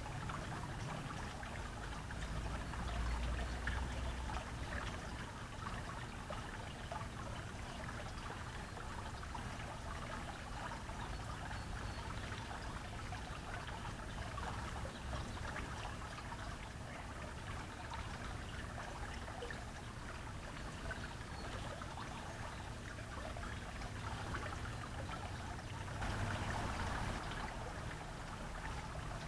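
A steady trickle of running water, with a low rumble underneath.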